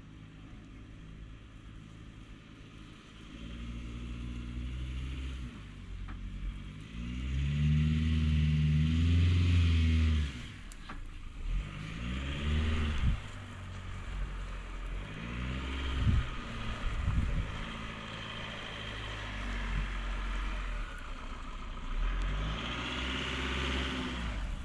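Car engine revving up and down in several separate rises and falls, the longest and loudest about eight seconds in.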